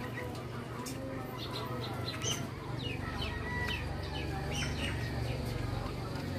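Birds chirping: a run of short, quick, downward-sweeping chirps about one and a half to five seconds in, over a steady low background hum.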